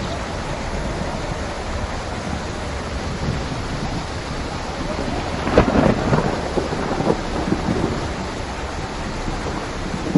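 Steady rain falling, with a thunderclap about halfway through that cracks sharply and rumbles off over a couple of seconds.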